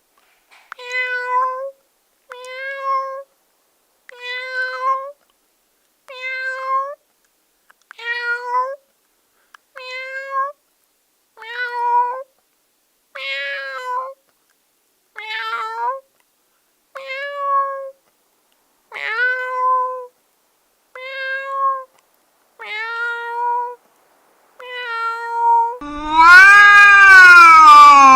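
Domestic cat meowing over and over: about fourteen short meows of much the same pitch, evenly spaced about every two seconds with silence between. Near the end comes a much louder, longer, drawn-out meow that rises and then falls in pitch.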